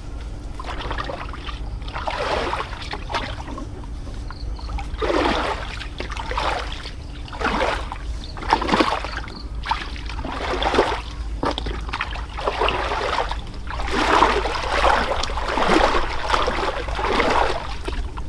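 Water splashing and sloshing in a string of irregular splashes, some brief and some longer, over a steady low rumble.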